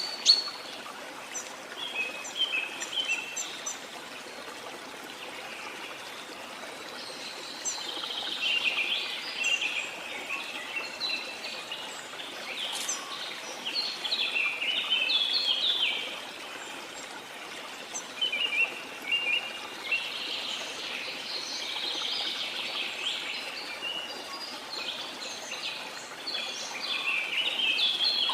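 Small birds chirping and twittering in busy bursts over a steady rush of sea water. The chirping thins out for a few seconds several times and then comes back.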